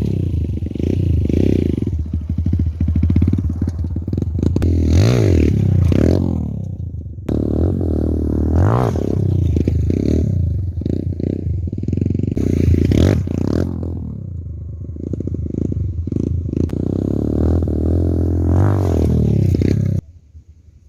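Stock street motorcycle engine, ridden on a motocross track, revving up and easing off again and again. The sound cuts off suddenly near the end.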